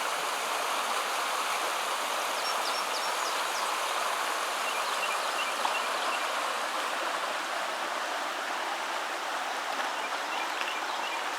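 Steady rushing of flowing water, like a stream, with a few faint, short high chirps over it, likely birds. It cuts off suddenly at the end.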